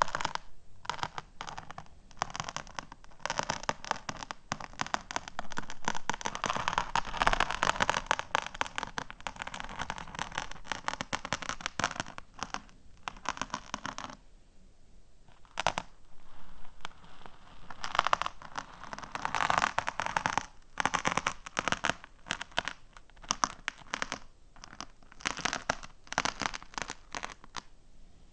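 Fingernails tapping and scratching rapidly on small hard objects close to the microphone, a dense crackly clicking that pauses briefly about halfway through.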